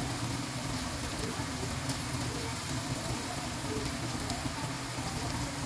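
Diced potatoes sizzling steadily as they fry in oil in a pan, with a few faint ticks of the spatula as they are stirred and turned.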